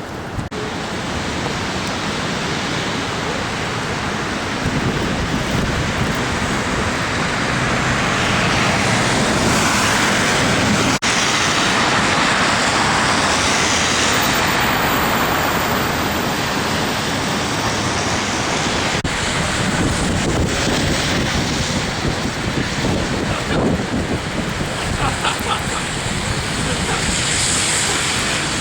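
Storm wind rushing and buffeting the camera microphone: a loud, steady roar of noise that swells a little through the middle.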